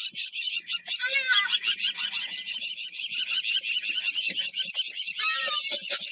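Wild birds calling on open grassland: a fast, steady run of high chirps, about eight or nine a second, with a lower wavering call about a second in and another short call near the end.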